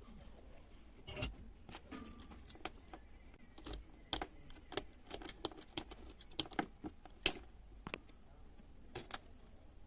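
Irregular sharp clicks and light taps of small hard objects being handled, a few each second, with the loudest one a little past the middle, over a faint low hum.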